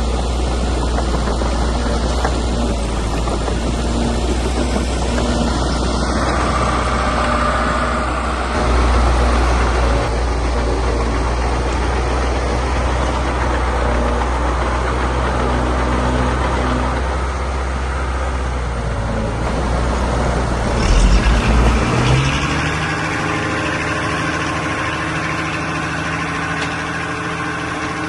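Diesel engines of heavy earthmoving machinery running steadily with a deep drone. About 21 seconds in there is a short louder burst, after which the deep drone drops out and a lighter, even engine hum carries on.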